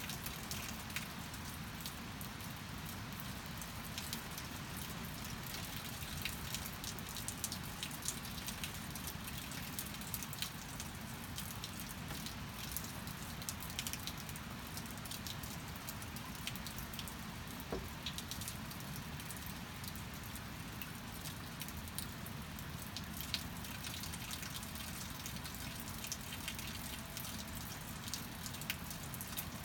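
Steady rain falling, with many scattered sharp drop ticks and drips.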